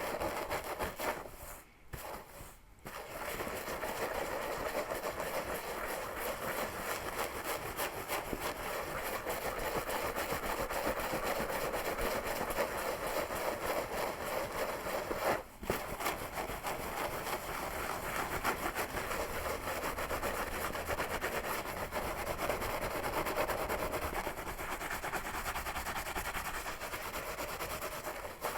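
Fingers scratching a scalp and pulling through hair: a dense, crackly rubbing with short breaks about two seconds in and about halfway through.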